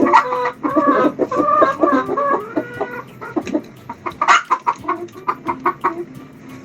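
A recorded hen clucking: a few longer calls at first, then a quick run of short clucks.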